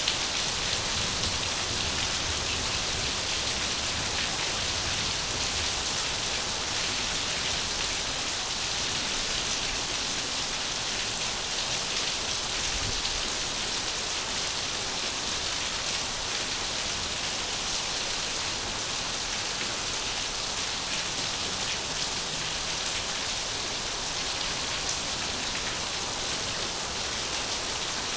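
Steady rain falling: an even hiss with fine patter of drops that does not change.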